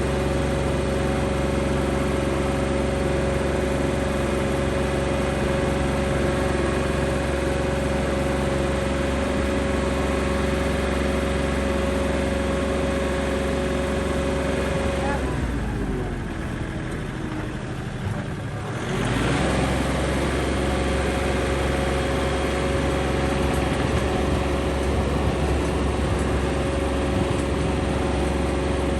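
Kioti NX4510 compact tractor's diesel engine running steadily. About halfway through, its pitch drops and the sound sags for about three seconds, then comes back up to speed.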